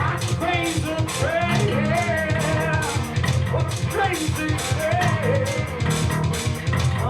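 Rock band playing: a wavering lead line with bending notes, most likely electric guitar, over bass guitar and drum kit.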